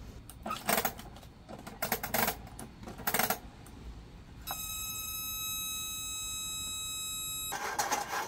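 Hard clicks and clatter from parts of a kerosene camping heater being handled and fitted. About four and a half seconds in, a steady high electronic beep sounds for about three seconds, then more rapid clatter starts near the end.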